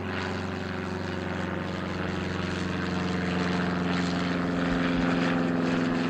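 Aircraft engines running with a steady droning hum of several even tones, growing slowly louder.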